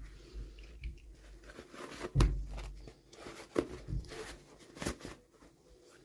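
Toy packaging being handled and opened: irregular crinkling and tearing with several sharp clicks and knocks, the loudest about two seconds in.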